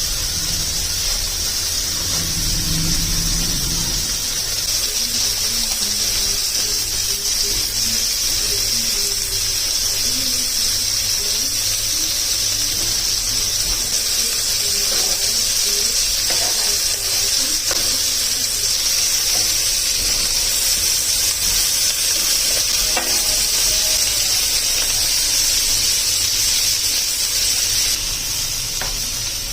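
Food sizzling in a hot frying pan, a steady hiss.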